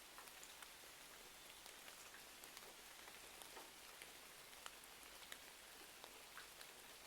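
Faint steady rain hiss mixed with scattered small crackles and ticks of a wood fire, a few each second.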